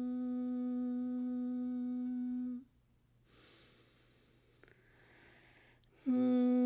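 A woman's voice toning one long, steady hummed note as a healing tone. It breaks off about two and a half seconds in for an audible breath, then comes back on the same pitch near the end.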